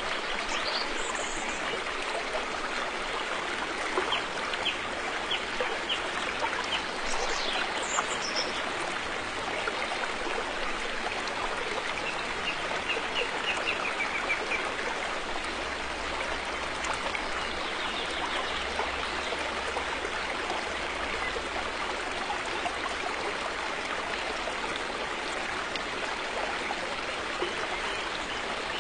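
River water flowing over rocks in a steady, even rush, with no break.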